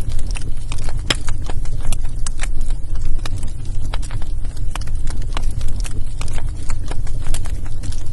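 Wood fire in a fireplace crackling, with irregular sharp pops over a steady low rumble; one louder pop about a second in.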